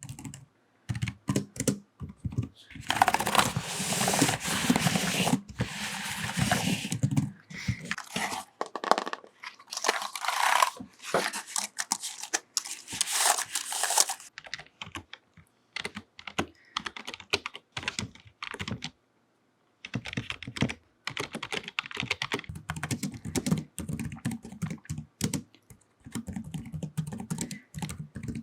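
Computer keyboard being typed on with long fingernails, the keys clicking in quick dense runs and then in sparser, slower taps.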